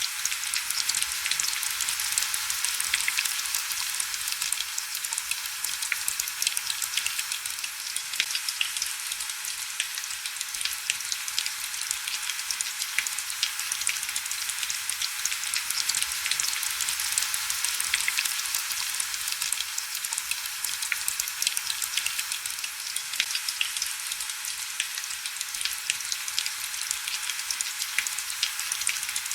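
Steady heavy rain: an even hiss of many drops with a dense scatter of sharp ticks, thin and bright with no low rumble.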